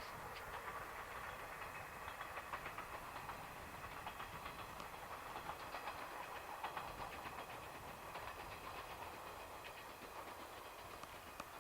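Train wheels clattering over the rails with many fine clicks, heard faint and slowly fading.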